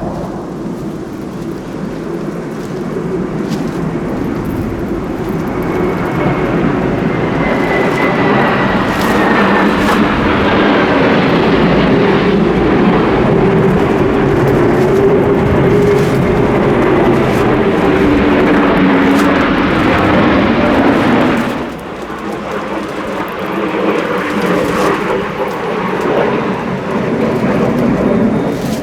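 Military jet aircraft flying low overhead: a rising roar with a whine that falls in pitch as it passes. The loudness drops suddenly about three quarters of the way through, and the engine noise carries on more quietly.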